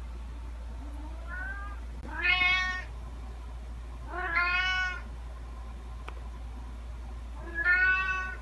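Domestic cat meowing: one faint short meow about a second in, then three louder, drawn-out meows spaced a couple of seconds apart, the last near the end.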